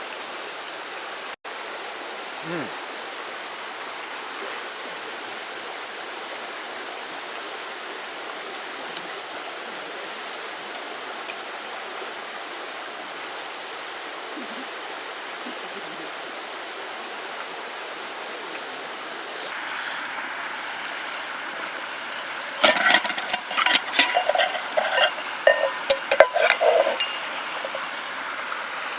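Steady rushing of a stream. Near the end, a few seconds of loud, quick clattering and rattling knocks.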